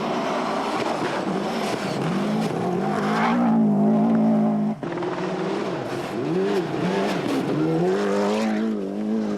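Rally car engine at full effort, its pitch climbing and dropping again and again as it revs through the gears and lifts for corners, with an abrupt break about five seconds in.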